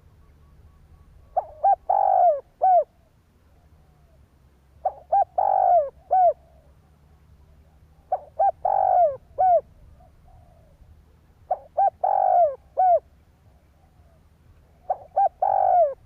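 Spotted dove cooing its repeated call phrase about every three and a half seconds: two short coos, a longer, louder coo, then a short one. The last phrase begins near the end.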